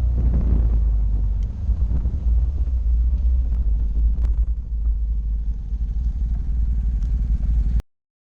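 Motorcycle engine running steadily under way, with heavy low wind rumble on the microphone; the sound cuts off suddenly near the end.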